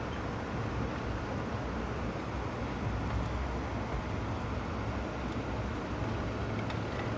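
Steady rumble of a moving Amtrak passenger train heard from inside the car: wheels on rails and running noise, with a low hum underneath.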